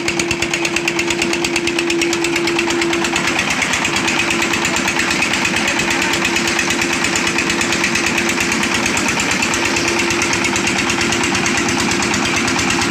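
Heavy diesel engine of construction machinery running steadily at close range, with a rapid, even pulse and a steady hum.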